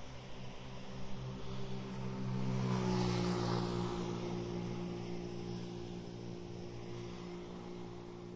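A motor vehicle's engine hum passing close by, swelling to its loudest about three seconds in with a slight drop in pitch, then fading gradually.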